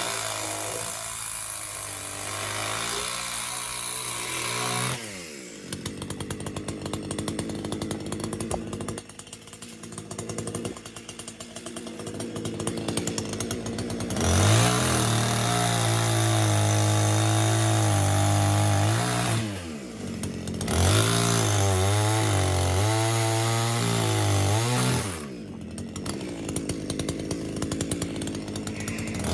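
Chainsaw engine running at lower speed, then twice opened up to a steady full-throttle run of about five seconds, each time dropping back with a falling pitch.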